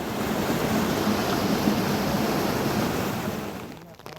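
A loud, steady rushing noise that starts abruptly and fades away after about three and a half seconds.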